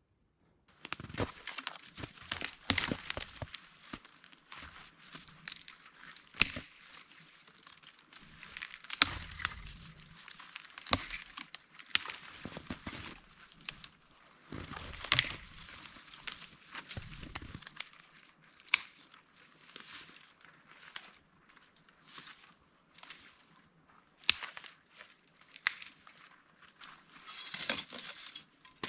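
Irregular crinkling and rustling of material being handled, with many sharp cracks.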